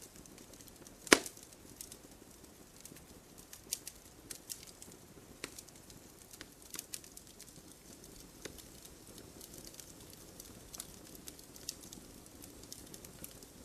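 Wood campfire crackling, with irregular sharp pops and one loud snap about a second in, over a faint steady hiss.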